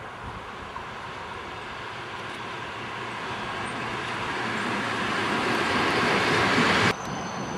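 ED4M electric multiple unit passing at speed: steady wheel-and-rail rolling noise that grows louder as the train comes by. The noise cuts off suddenly near the end.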